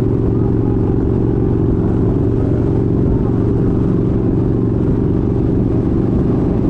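Kawasaki Vaquero's 1700cc V-twin engine running steadily while riding, with no change in speed or pitch.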